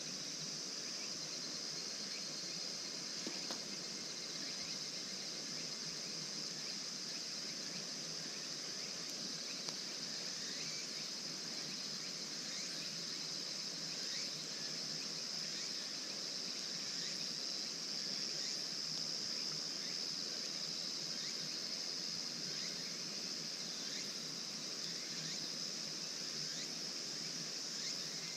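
Steady high-pitched chirring of an insect chorus, unbroken throughout, over a faint even hiss.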